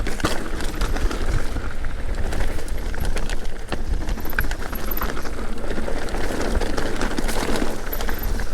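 Mountain bike riding down a rocky chute: tyres crunching and clattering over loose rocks with frequent sharp knocks and rattles from the bike, over a heavy low rumble of wind on the microphone.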